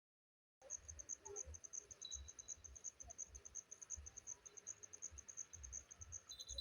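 Faint cricket chirping in an even train of high pulses, about five or six a second, starting just over half a second in; soft low bumps underneath.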